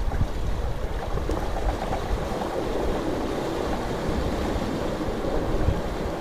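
Steady rushing noise of churned water and wind, with an uneven low rumble underneath.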